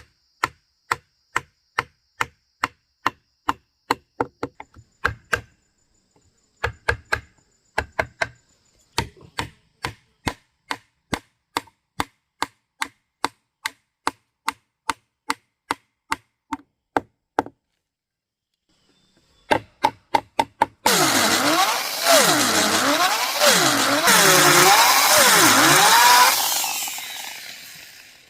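Woodworking on a piece of timber: steady blows struck on wood, about two a second, for most of the span, with a short pause and a few more blows. Then about six seconds of a loud, continuous cutting noise whose pitch dips and rises roughly once a second, fading out near the end.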